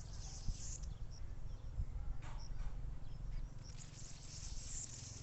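Small birds calling from a tree: short, high chirps repeated about once a second over faint background chirring.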